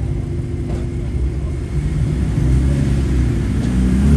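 A car engine running with a low rumble, rising in pitch and growing louder over the last couple of seconds as it is revved or pulls away.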